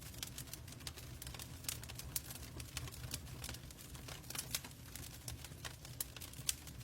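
Wood fire crackling in a fireplace: irregular sharp pops and snaps over a low steady rumble, the loudest pop about six and a half seconds in.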